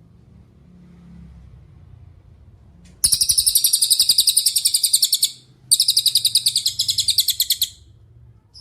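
Cililin singing: two loud, very rapid high-pitched trills of about a dozen notes a second, each lasting about two seconds, the first starting about three seconds in, with a short pause between them.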